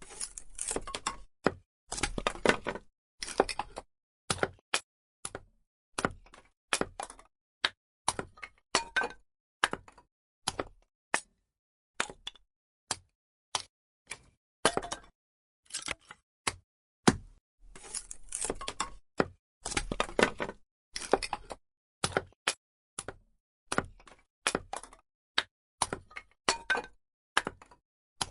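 Burning firewood crackling, with irregular sharp pops and snaps, sometimes single and sometimes in quick clusters of several.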